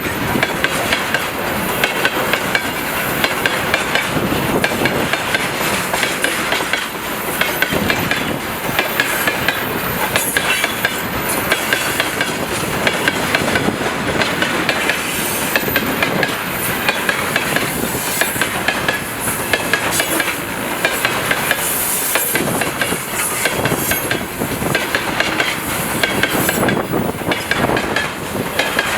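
Freight train of tank cars rolling past, its wheels clattering steadily over the rail joints with many sharp clicks.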